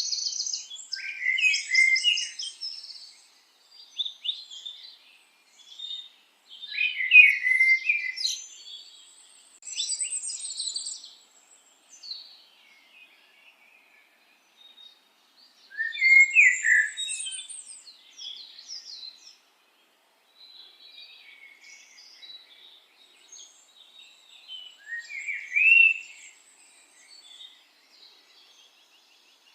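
Birds singing and chirping in short bursts of quick, high notes and trills, separated by pauses of a few seconds.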